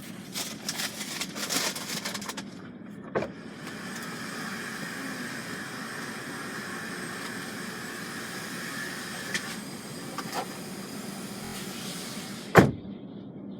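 Car wash self-service vacuum running with a steady whine and rush of air, after some rustling and clicks. A single sharp knock comes near the end.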